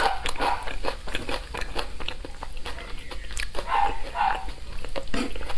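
Close-miked chewing of sticky braised pork, with many wet lip smacks and mouth clicks.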